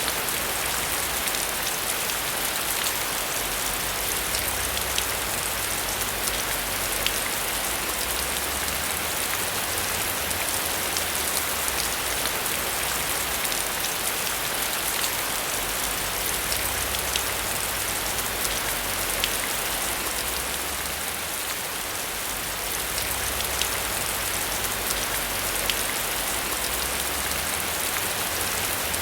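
Steady heavy rain, a dense even hiss with the sharp taps of individual drops hitting a surface.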